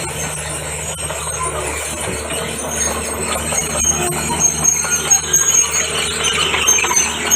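Komatsu D31PX crawler bulldozer running: the diesel engine holds a steady low hum under short, high-pitched squeals from the steel tracks, which come more often in the second half.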